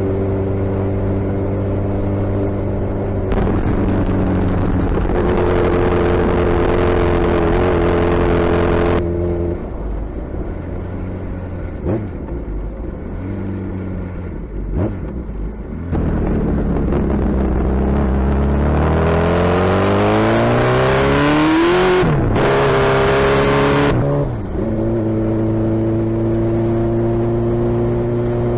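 Suzuki Hayabusa's inline-four engine running through a loud aftermarket exhaust while riding, holding a steady note. Past the middle the revs climb steadily under acceleration to a peak, drop suddenly, climb briefly again, then settle back to a steady note near the end.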